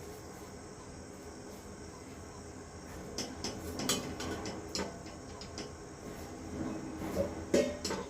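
A steady low hum, with a scatter of short clicks and knocks from about three seconds in, the loudest near the end, like household objects being handled.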